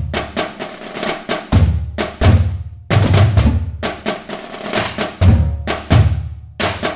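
Drums playing: a fast run of sharp snare-like strikes over repeated deep bass drum hits.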